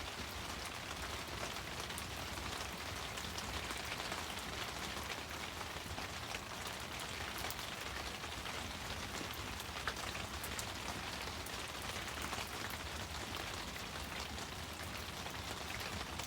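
Wood bonfire burning with a steady hiss and many small crackles and pops, one sharper pop about ten seconds in.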